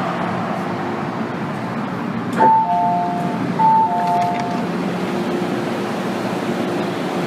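Inside an MTR M-Train car: steady train noise with a low hum. About two and a half seconds in, a two-note falling electronic chime sounds twice.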